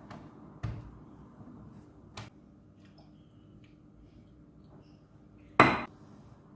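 Kitchen clatter: cookware or utensils knocking three times, the last knock near the end the loudest, over a faint steady hum.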